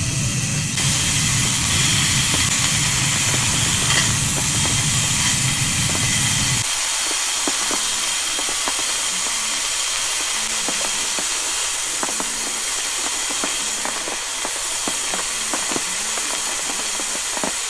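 Food sizzling in a hot frying pan, a loud, steady hiss with small pops and crackles. A low rumble under it stops suddenly about seven seconds in, and the sizzle carries on.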